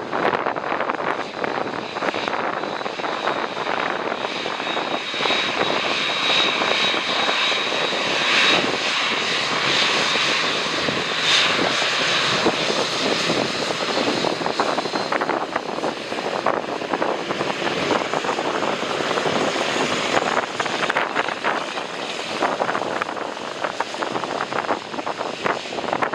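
Jet airliner passing low on its landing approach. The engines run as a steady rush with a high whine that comes in about five seconds in and fades out about ten seconds later.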